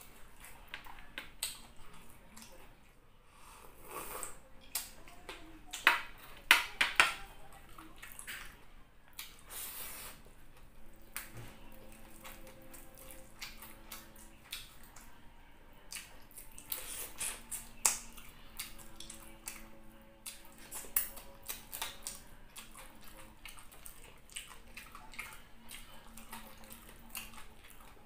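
Close-miked eating by hand: wet chewing, lip smacking and crisp crunchy clicks from a mouthful of fried tilapia and fried rice, the loudest crunches coming in a quick cluster about six to seven seconds in.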